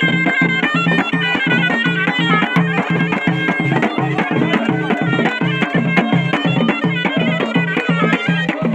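Ghaita, the Moroccan double-reed shawm, playing a fast, ornamented folk melody over a steady low beat.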